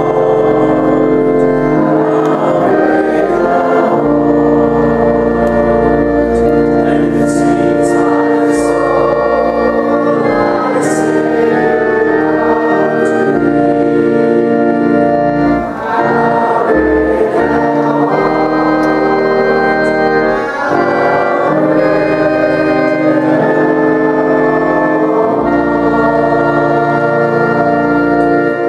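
Organ playing a hymn in sustained, full chords, with the music breaking off near the end.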